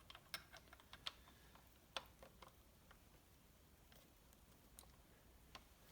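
Faint, scattered light clicks and taps of small engine parts being handled and turned by hand, most of them in the first half.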